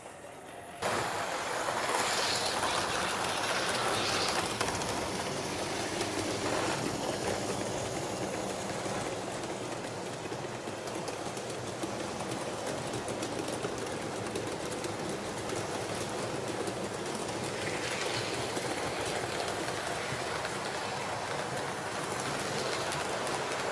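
Train running along the track: a steady rolling noise that starts suddenly about a second in, with faint clicks from the wheels.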